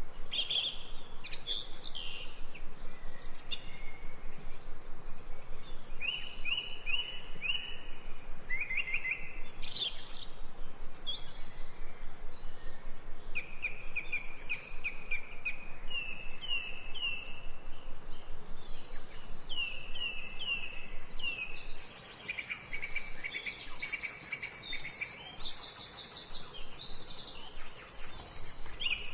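Several songbirds singing and chirping, with trills of quickly repeated notes that come thicker in the last few seconds.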